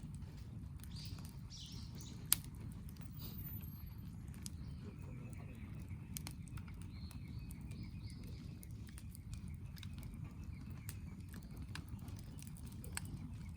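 Wood campfire crackling: scattered sharp pops over a steady low rumble, with one much louder pop about two seconds in.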